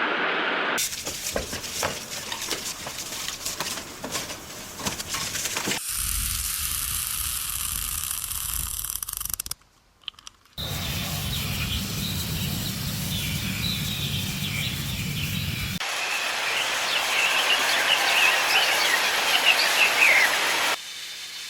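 Several short outdoor recordings spliced together, each a steady rushing noise, with a brief drop to near silence about halfway. Many quick high bird-like chirps come through the noise in the later part.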